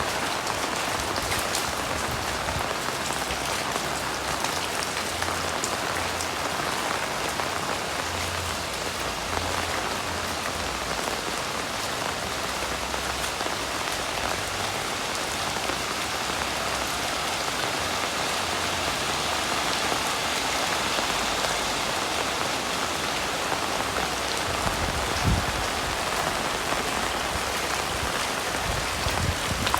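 Heavy rain falling steadily, a dense even hiss of drops on surfaces, with a couple of low thumps near the end.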